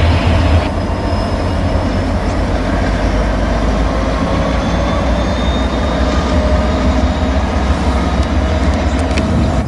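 Norfolk Southern freight train rolling along the tracks: a steady low rumble of wheels and cars, with faint thin steady tones above it.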